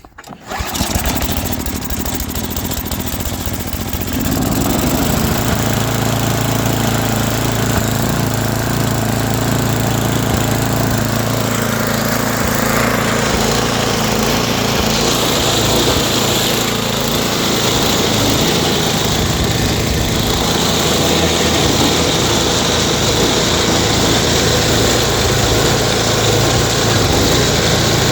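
Small gas engine started up and running. About four seconds in it picks up and settles into a steady run.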